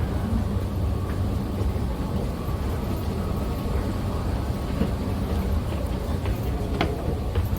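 Steady low rumble of vehicle noise with a faint steady tone above it, and a few sharp clicks near the end.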